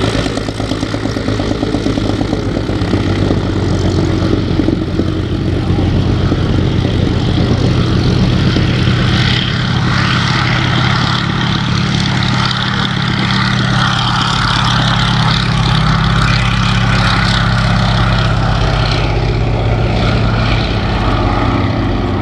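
Propeller aircraft's piston engine running steadily and loudly, its low note dipping slightly near the end.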